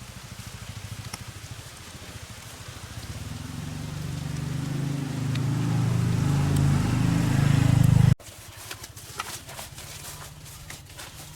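A small engine running with a fast, even pulse, growing steadily louder for about eight seconds and then cut off abruptly. Quieter scattered clicks and crackle follow.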